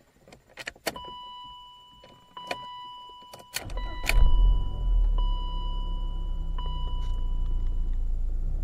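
A few clicks and a repeating electronic chime tone, then, about three and a half seconds in, a BMW 318ti's M44 1.9-litre four-cylinder engine cranks, catches and settles into a steady, slightly uneven idle. The rough running is the sign of a failing camshaft sensor.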